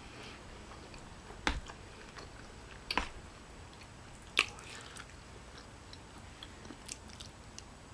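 A person eating chicken gumbo by the spoonful, soft wet chewing and mouth sounds close to the microphone. Three sharp clicks stand out, about a second and a half apart, among fainter ones.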